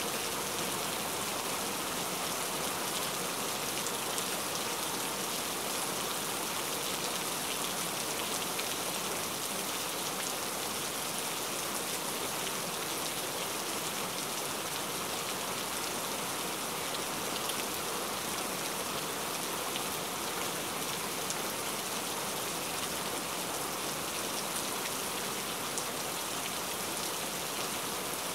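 Cauliflower kababs shallow-frying in hot oil in a pan: a steady sizzle with scattered faint crackles.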